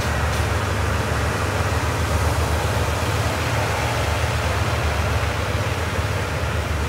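Passenger coaches of a departing train rolling past at low speed: a steady rumble of wheels on rails with an even hiss over it.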